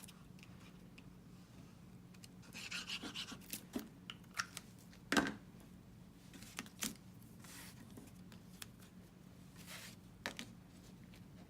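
Cardstock pieces being handled and rubbed at a craft table, a stretch of rustling followed by scattered small taps and clicks as paper pieces are glued and pressed into place.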